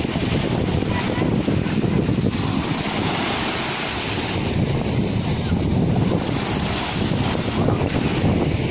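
Sea waves washing and breaking on the shore in a steady, continuous rush, with wind buffeting the microphone.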